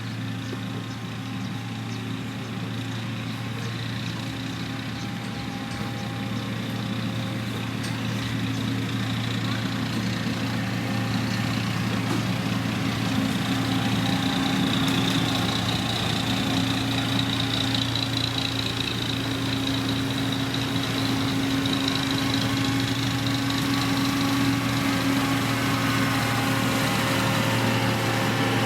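Diesel engine of a heavy road-construction machine running steadily under load, growing gradually louder as it comes closer.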